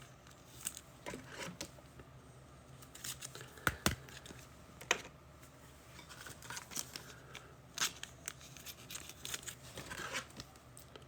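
Trading-card packs being handled and torn open: wrappers crinkling and tearing in short, scattered crackles, with the sharpest snaps a little under four seconds and about five seconds in.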